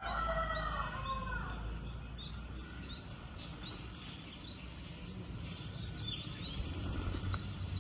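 Birds calling: short high chirps repeating every half second or so, with a longer pitched call that falls away in the first second and a half, over a steady low rumble.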